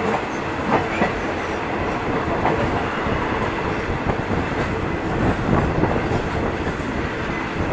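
Passenger train coach running on the rails, heard from inside with the windows open: a steady rumble and rattle with occasional clicks from the wheels.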